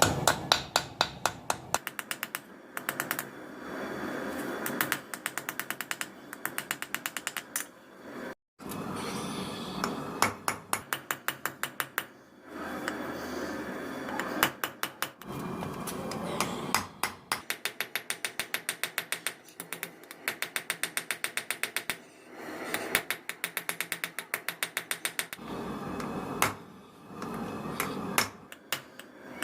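Hand-tool metalwork: quick runs of sharp clicks or taps at an even rate, alternating with stretches of rough scraping noise.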